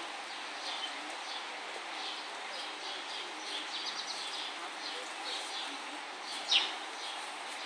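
Small birds chirping on and off over a steady outdoor background, with one louder, sharp high chirp about six and a half seconds in.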